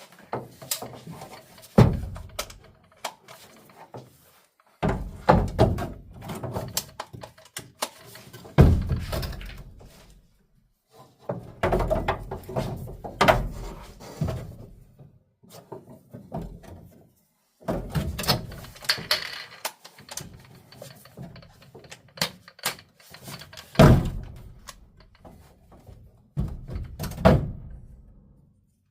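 Irregular knocks, thunks and clatter coming in clusters a few seconds apart, with no motor running.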